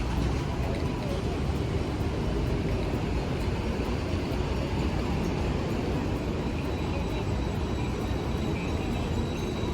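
Steady low rumble of city traffic and streetcars, with no single vehicle standing out.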